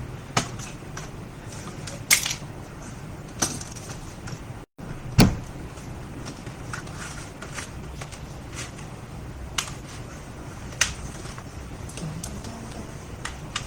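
Irregular sharp clicks and taps of a screwdriver, screws and plastic parts as a laptop is taken apart, the loudest about five seconds in with a dull knock, over a steady low hum.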